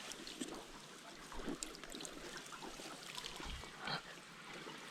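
Shallow creek water trickling, with a few faint knocks and splashes and a slightly louder one a little past three and a half seconds in.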